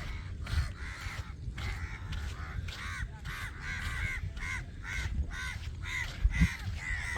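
A flock of crows cawing, many short calls overlapping, growing busier from about three seconds in.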